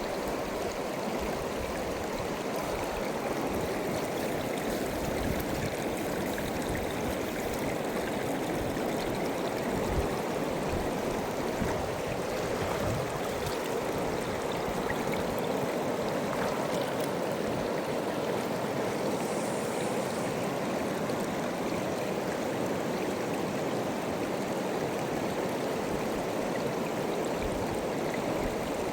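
Fast-flowing mountain river: a steady, even rush of water.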